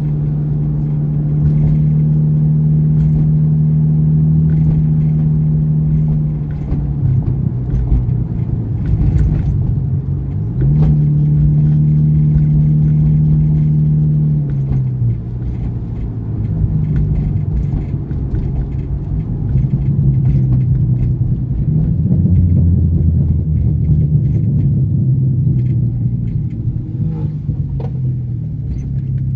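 Nissan 350Z Nismo's 3.5-litre V6, heard from inside the cabin. It drones steadily while cruising, dips, climbs back up about ten seconds in, eases off around fifteen seconds, then runs lower and more unevenly as the car slows.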